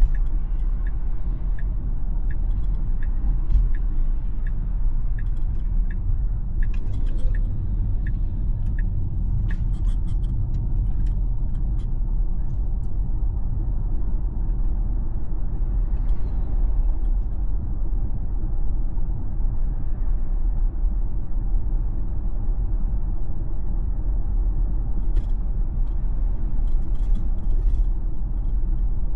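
Steady road and tyre rumble inside a Tesla's cabin while it drives. Over it a turn signal ticks evenly, a little under two ticks a second, and stops about nine seconds in.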